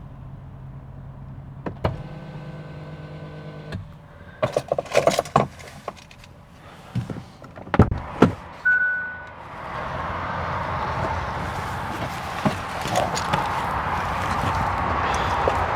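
Sounds of a car being handled: a low hum, then a motor whirring steadily for about two seconds, a run of clicks and knocks, and a short high beep. From about ten seconds in, a steady rushing noise takes over.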